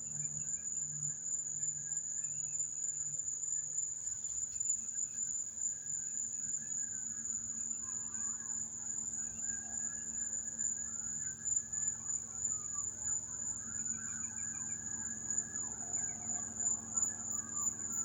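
A steady high-pitched insect chorus, with distant police car sirens faintly wailing up and down, more of them in the second half.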